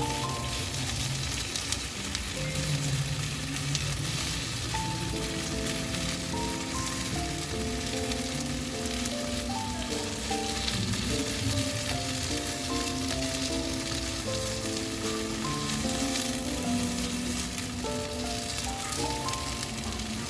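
Boneless chicken thighs sizzling steadily in a frying pan as they brown in Korean fried-chicken sauce. A background music melody plays along.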